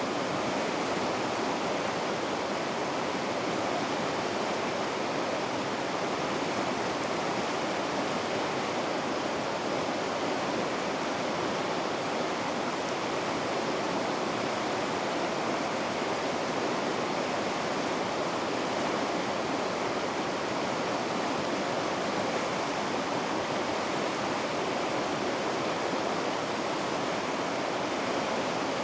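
Vikaköngäs rapids: river water rushing over rocks in a steady, even roar that doesn't change.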